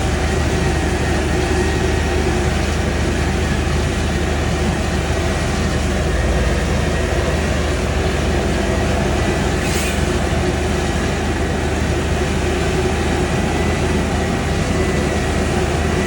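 Heavy farm harvest machinery running steadily under constant load: a continuous low drone with a dense mechanical rush over it.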